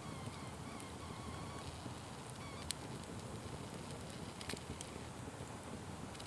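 Wood fire burning with a steady low rush of flames and occasional sharp crackles and pops, the loudest a bit under halfway through.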